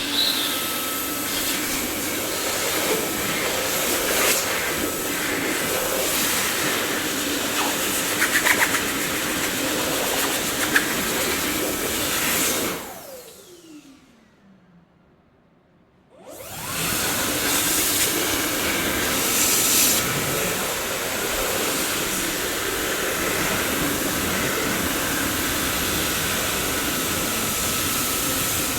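Dyson vacuum cleaner running with a steady rushing whoosh, with a few short rattles in the middle. Partway through, the motor is switched off and its whine falls away to near silence. A few seconds later it is switched back on and quickly returns to full speed.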